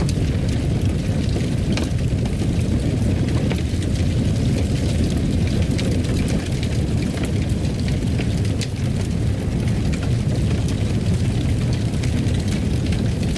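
Fire burning in a fireplace: a steady low roar with scattered sharp crackles and pops.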